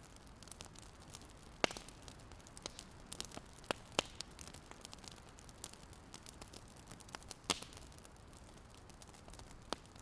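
Wood fire crackling: irregular sharp pops and snaps over a faint steady hiss, with a few louder pops.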